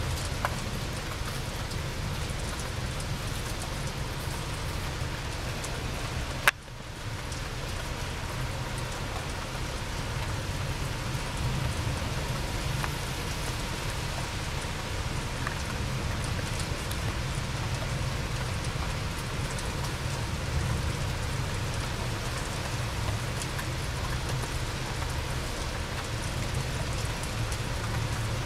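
Steady rain falling, an even hiss of a downpour. One sharp click comes about six and a half seconds in, followed by a brief dip in the sound.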